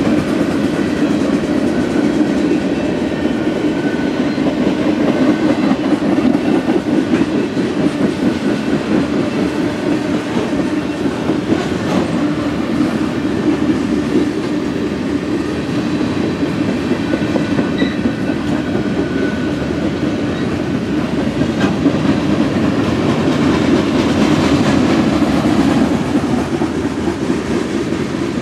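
Freight cars of a passing mixed freight train (covered gondolas, tank cars, covered hoppers) rolling by at steady speed: a continuous rumble of steel wheels on rail with clickety-clack over the rail joints, and a few faint high squeals from the wheels now and then.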